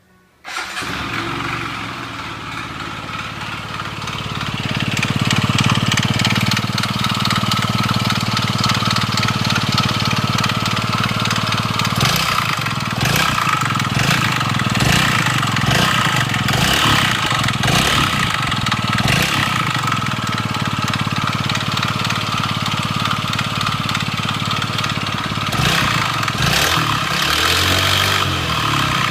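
Motorcycle engine starting about half a second in and running, growing louder about four seconds in, with an abnormal noise from the crank.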